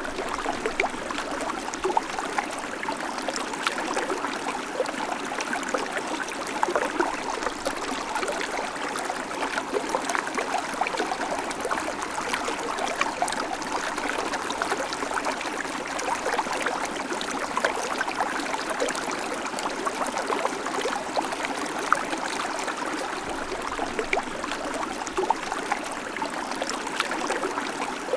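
Shallow creek babbling over stones: a steady rush of running water with many small splashes and trickles.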